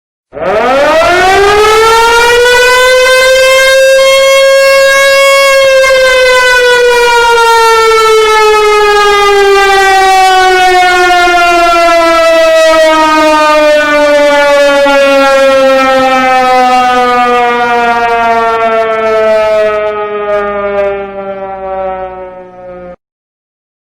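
A siren winding up, its pitch rising over about five seconds, then slowly winding down with a falling pitch before it cuts off near the end.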